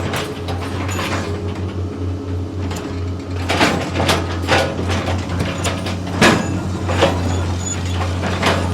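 Heavy construction machinery running: a steady low engine drone with repeated sharp metallic clanks and clicks.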